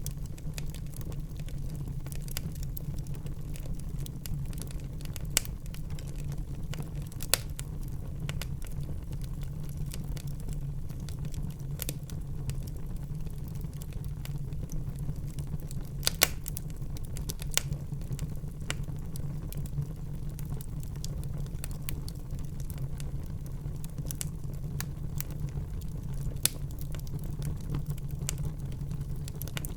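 Wood fire burning in a fireplace: a steady low rumble with scattered sharp crackles and pops, the loudest pop a little past halfway.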